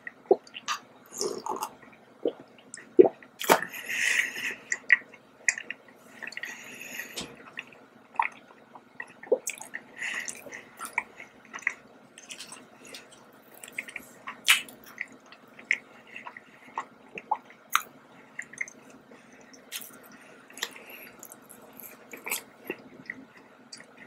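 Close-miked mouth sounds of eating and drinking: swallowing milk, then chewing doughnut, with many short wet clicks and smacks scattered throughout.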